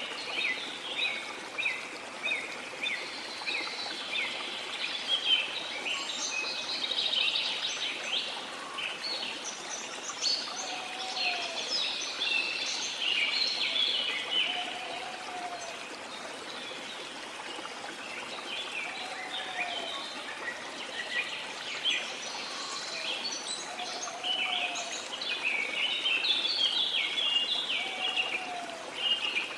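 A chorus of small birds chirping and twittering continuously over a steady rush of sea water. A lower, short call repeats every four to five seconds.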